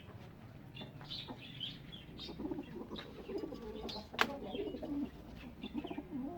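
Pigeons cooing in repeated low warbling phrases, mixed with short high bird chirps, and a single sharp click about four seconds in.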